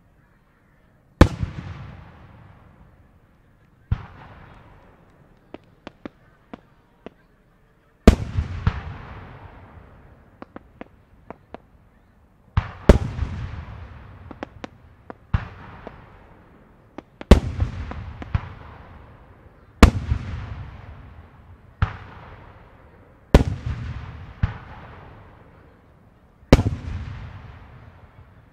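Japanese aerial firework shells (4-gō and 5-gō) bursting one after another: about a dozen sharp booms a couple of seconds apart, each trailing off in a rolling echo, with a few small pops and crackles in the gaps.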